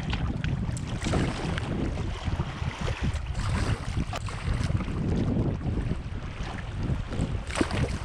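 Wind buffeting the microphone over the rush and splash of fast-moving river water around a kayak, with scattered short splashes.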